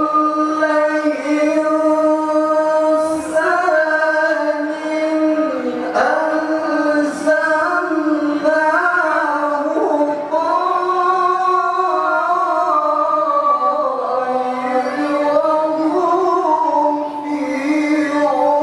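Qur'an recitation in the melodic tilawah style: a single voice holding long, ornamented notes that waver and slide in pitch, with brief breaks about six and ten seconds in.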